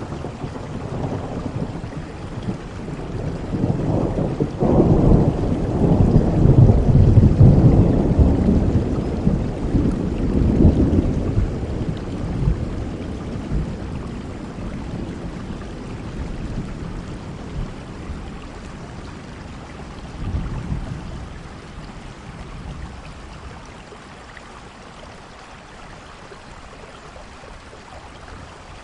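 Heavy rain with a long, low rolling peal of thunder that swells a few seconds in and rumbles on for several seconds, a shorter rumble about two-thirds of the way through, then the thunder dies away leaving steady rain.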